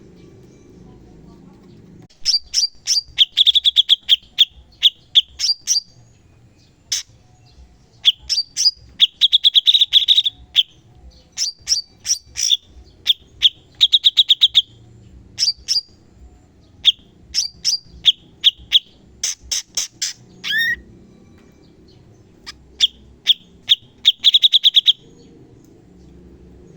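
Cucak cungkok singing in rapid bursts of sharp, high chirps, phrase after phrase with short pauses, stopping briefly about three-quarters of the way through before a last burst.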